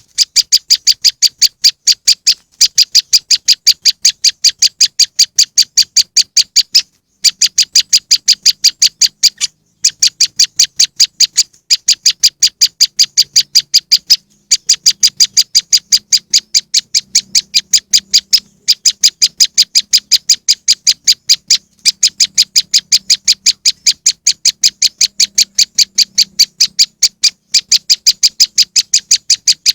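Recorded call of a prenjak lumut, played as a bird-trapping lure: a fast, loud series of sharp, high chirps, about six a second, in long runs broken by brief pauses.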